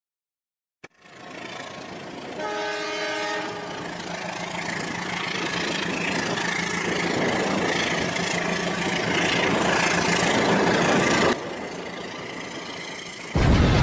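Train horn sounding once, briefly, followed by the rumble and clatter of a running train that grows steadily louder and drops off abruptly near the end. Just before the end a sudden loud, low-heavy sound cuts in.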